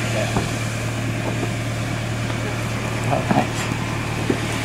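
Car engine idling steadily, a low even hum, with brief snatches of voices about three seconds in.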